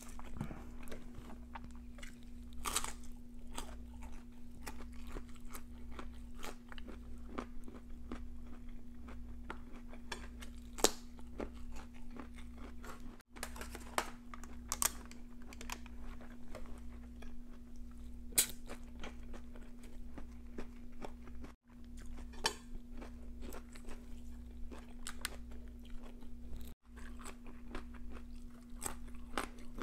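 Close-miked crunching and chewing of raw vegetables such as cauliflower and bell pepper, with sharp crisp bites scattered throughout. A steady low hum runs underneath.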